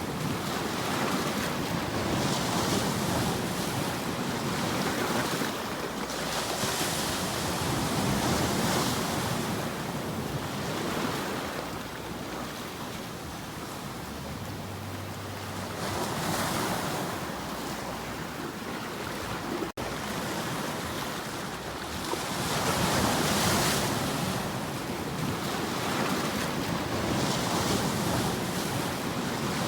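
Ocean surf washing in and out, a steady rush of noise that swells and eases every few seconds, with some wind. The sound drops out for an instant about twenty seconds in.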